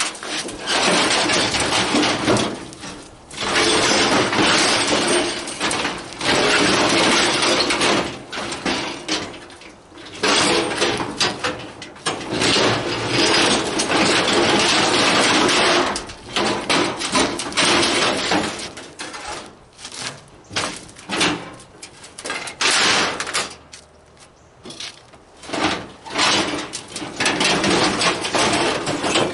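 Scrap metal being shoved and dragged over other scrap, a rough scraping noise in long strokes of several seconds, broken by short clanks and knocks.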